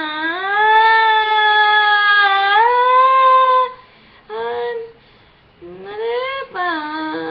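A singing voice holding a long wordless note that glides up in pitch, then breaking off into two shorter sung notes after brief pauses, the second sliding upward.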